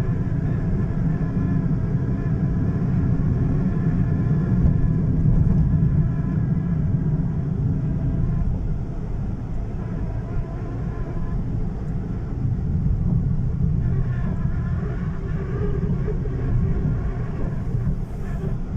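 Steady low rumble of a car driving, heard from inside the cabin: engine hum and road noise, with a slight change in the engine note about fourteen seconds in.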